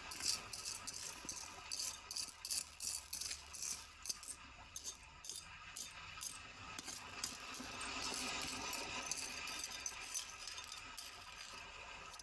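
Small hard objects rattling and clicking as they are handled and sorted by hand, in a quick irregular run of ticks over a steady hiss.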